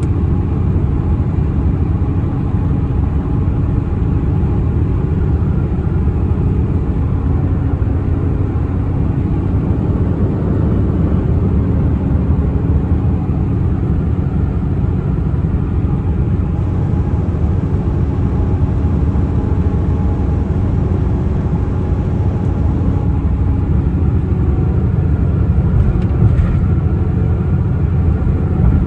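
1996 Toyota Tacoma's engine and exhaust running at a steady speed, a low rumble with a constant drone.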